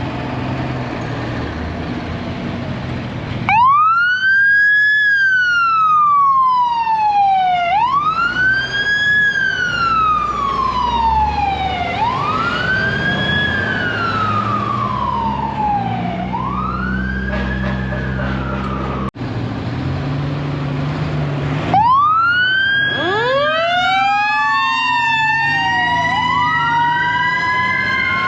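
Fire truck sirens wailing over the rumble of a truck engine. A few seconds in, a siren starts, rising quickly and falling slowly about every four seconds. Near the end a second siren joins, sweeping out of step with the first.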